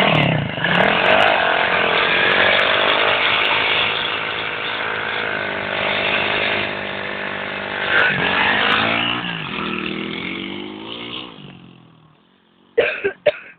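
110cc pit bike's small single-cylinder four-stroke engine running hard and revving, its pitch rising and falling as the throttle opens and closes. It fades out about eleven seconds in, and a few sharp knocks follow near the end.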